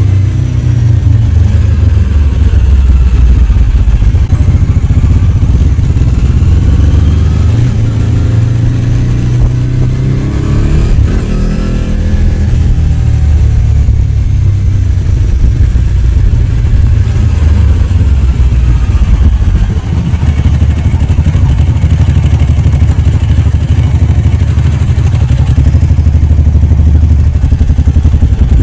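Ducati 749 superbike's L-twin engine running under way, its pitch rising and falling several times as the revs go up and down.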